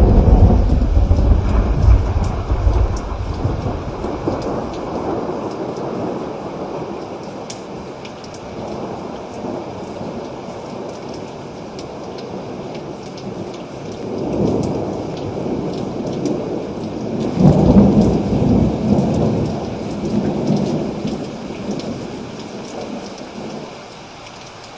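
Steady rain with rolling thunder: a loud thunderclap at the start rumbles away over several seconds, then two more rolls of thunder swell and fade a little past the middle.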